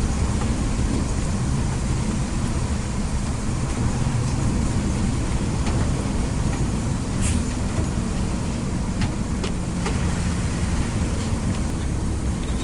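Intercity coach bus on the move: a steady low rumble of engine and road noise, with a few brief light clicks partway through.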